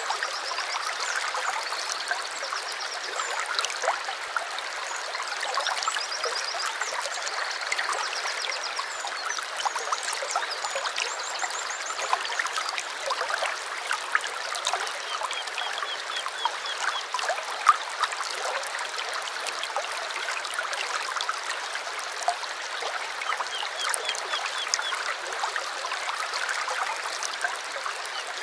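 A small stream trickling and babbling steadily over stones. Birds sing short, rapid trills of repeated high notes on and off over the water.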